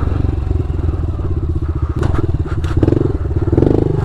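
Honda CRF110 pit bike's single-cylinder four-stroke engine running at low revs with a rapid, even firing beat, revving up briefly twice near the end. A few sharp clattering knocks come about halfway through.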